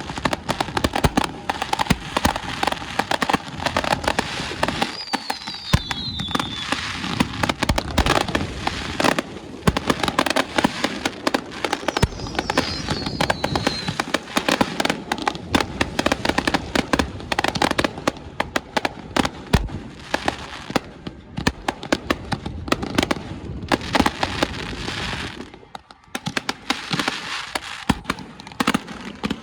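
Fireworks going off in a dense, continuous barrage of bangs and crackles, with two brief falling whistles in the first half; the barrage thins out near the end.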